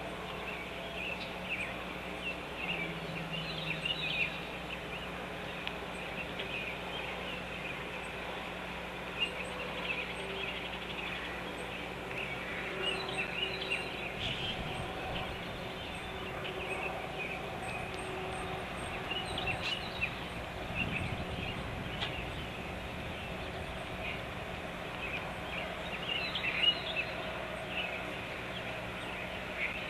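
Birds chirping: many short, high calls scattered throughout, over a steady low hum.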